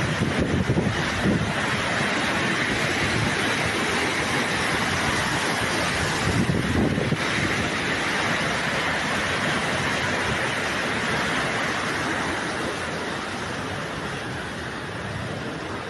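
Floodwater rushing in a steady wash of noise, with low buffets of wind on the microphone about a second in and again after six seconds.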